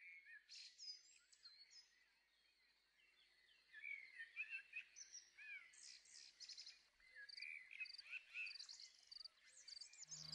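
Faint birdsong: several birds chirping and whistling in short rising and falling notes, with brief lulls. Music comes in at the very end.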